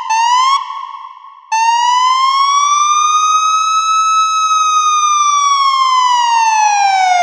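Police car's electronic siren: two short rising whoops, then a long wail that rises slowly and falls again.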